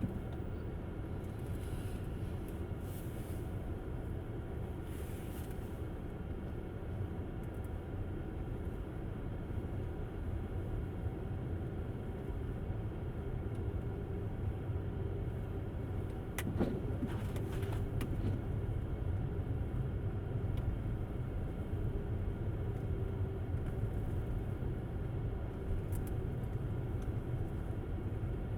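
Steady low rumble of tyres and road from a Tesla Model S driving on snowy roads, with no engine note since the car is electric. A few sharp clicks or knocks, the loudest a little over halfway through.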